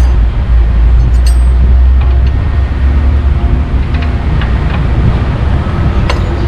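Heavy truck engine running with a steady low rumble, with a few light clicks over it.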